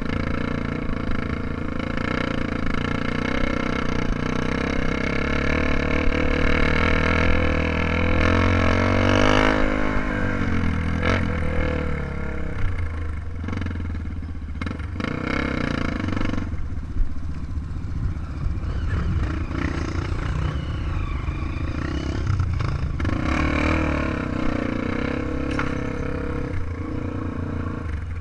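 Trail motorcycle engine running while riding, its pitch rising and falling with the throttle, with a few sharp clattering knocks around the middle.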